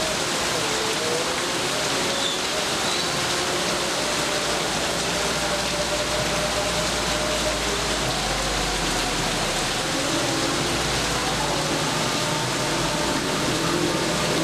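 Heavy rain falling steadily, with a faint low rumble from about six to ten seconds in.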